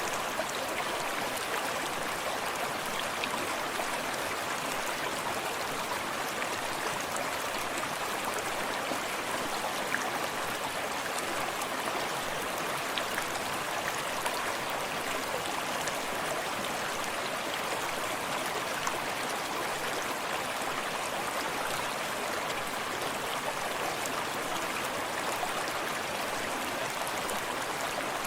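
Small forest stream running steadily over rocks, a continuous even rush of water with faint scattered splashes and drips.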